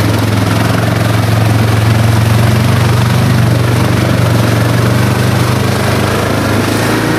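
ATV engine running steadily and loudly at a constant pitch, with a broad rushing noise over it.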